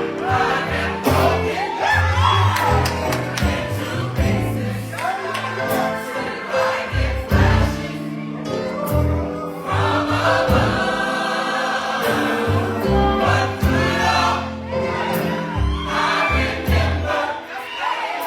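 Gospel choir singing with band accompaniment and a strong bass line.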